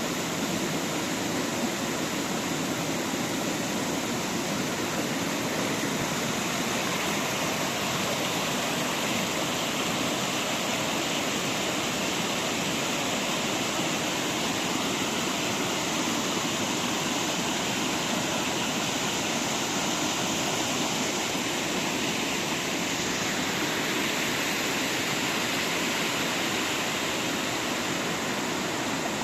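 Steady rush of water from a waterfall, an even, unbroken roar with no change in level.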